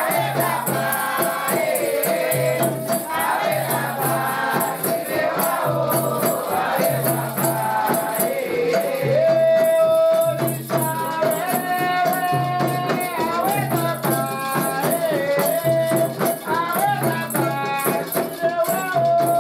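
Candomblé ritual music: voices singing a chant over shaken rattles, with a low beat that repeats about once a second.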